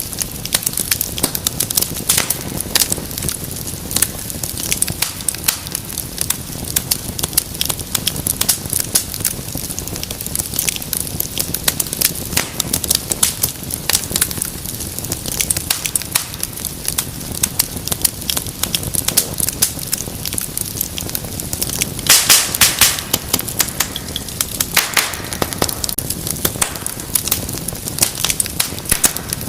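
Wood fire crackling steadily with many sharp pops. A louder flurry of pops comes about three-quarters of the way through, and another burst follows a few seconds later.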